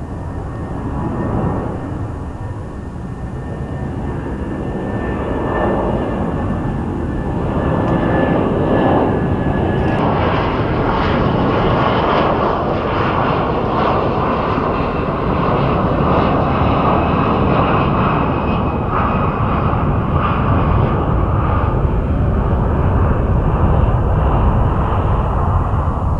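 Cathay Pacific Airbus A330's Rolls-Royce Trent 700 turbofans running at departure thrust, a loud jet rumble that builds over the first several seconds and then holds steady. A thin high whine fades out about ten seconds in.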